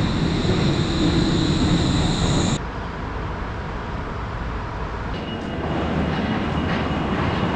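Train running, a steady rumble with a high whine over it. About two and a half seconds in it cuts abruptly to a quieter rumble, and a faint high tone joins it later.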